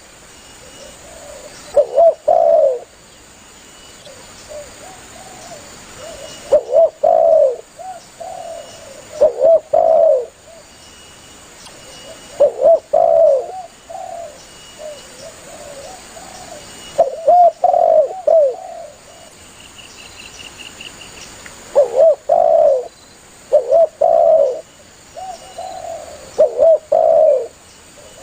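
Spotted dove (tekukur) cooing: repeated phrases of two or three low coos, a new phrase every two to three seconds.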